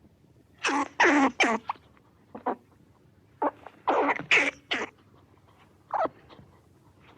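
Short animal calls with falling pitch, in quick groups of two or three, repeated several times.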